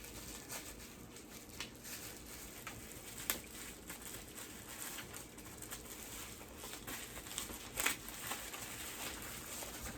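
Handling of a product and its packaging on a table: scattered small clicks, taps and rustles, with two sharper clicks about three seconds and about eight seconds in.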